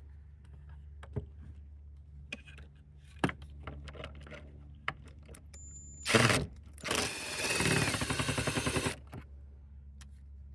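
Drill with a hex-head bit backing out the last bolt on the air filter housing: a short burst about six seconds in, then about two seconds of running with a rapid pulsing. Scattered light clicks and knocks come before it.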